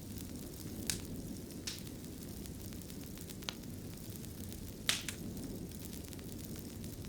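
Fireplace fire burning with a steady low rumble and hiss, broken by four sharp crackling pops, the loudest about five seconds in.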